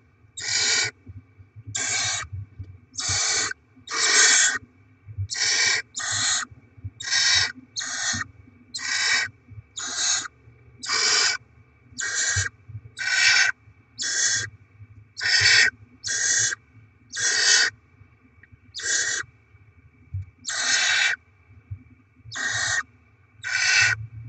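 Barn owl chicks giving their begging hiss, the raspy snore-like call of hungry owlets: a long run of harsh hisses, each about half a second, repeated about once a second.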